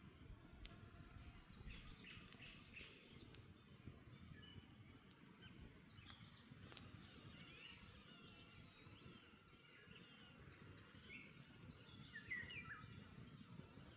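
Faint birdsong: scattered short chirps and calls over a low, steady rumble. A few sharp crackles from the campfire come through.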